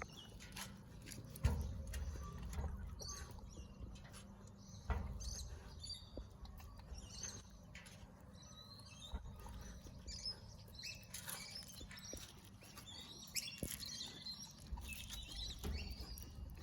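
Dog eating raw minced beef mixed with pears and eggshells from a bowl: irregular wet chewing, licking and smacking with small clicks, and a few dull bumps.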